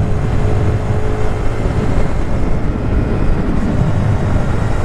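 Wind noise buffeting the microphone while riding a Honda Grom at road speed, with the motorcycle's small single-cylinder engine running underneath. A steady, dense low rumble throughout.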